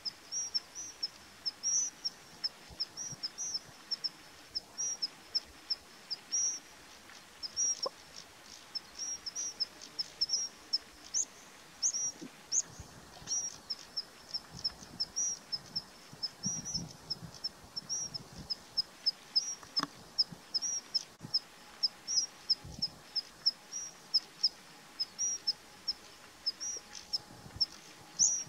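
A small bird chirping over and over: short high notes repeated a few times a second in an even rhythm.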